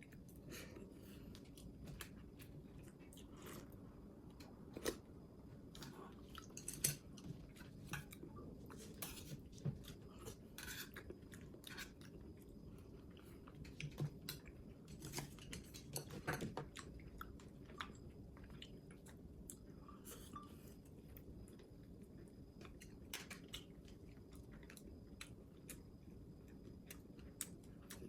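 A person chewing food, with irregular small crunches and clicks, busiest in the first two-thirds and sparser near the end, over a low steady hum.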